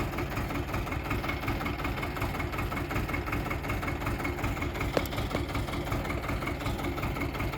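Xingtai 220 mini tractor's diesel engine idling steadily, with one brief click about five seconds in.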